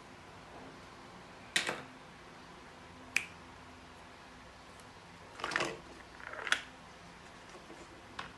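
A few separate sharp clicks and light knocks of hard objects, about five in all and irregularly spaced, over a steady faint hiss.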